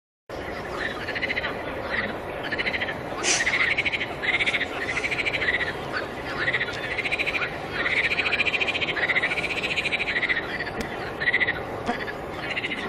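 Chorus of frogs calling: many overlapping trilled calls that rise and fall in pitch, repeated one after another over a steady background hiss. It cuts in suddenly just after the start.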